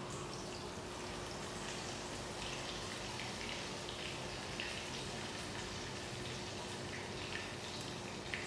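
Pork sizzling and crackling as it fries in oil in a pan, with a faint steady hum underneath.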